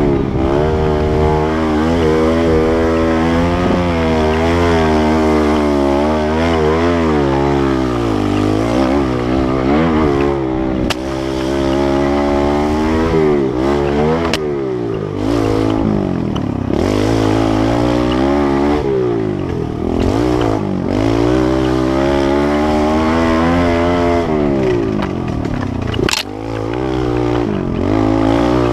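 Kawasaki KLX110L pit bike's small four-stroke single-cylinder engine revving up and down again and again as it is ridden, its pitch climbing under throttle and dropping back many times over.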